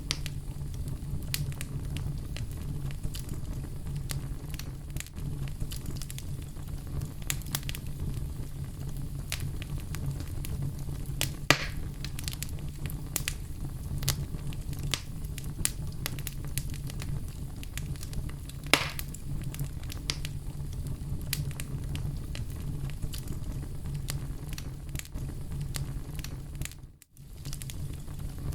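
Oak logs burning in a fireplace: a steady low rumble of flame with constant small crackles and two louder pops, about a third and two-thirds of the way through. The sound drops out for a moment near the end.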